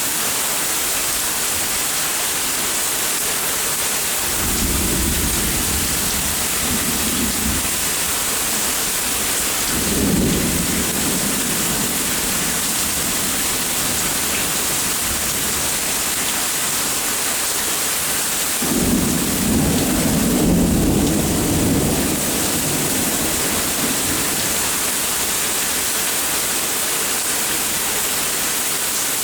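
Steady rain falling, with thunder rumbling three times: a low rumble about four seconds in, a short one around ten seconds, and the loudest and longest one a little past the middle.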